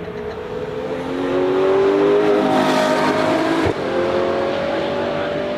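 Performance car engine accelerating, its pitch climbing, with a brief break at an upshift about three and a half seconds in, then pulling up again.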